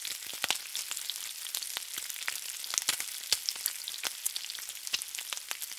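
Hot oil sizzling and crackling as food fries in a pan: a steady hiss with many sharp pops scattered throughout.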